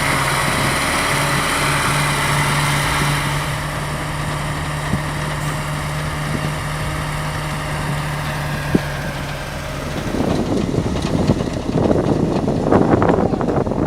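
A truck engine running steadily at a constant pitch. About ten seconds in, the steady hum stops and a rougher, uneven noise with irregular surges takes over.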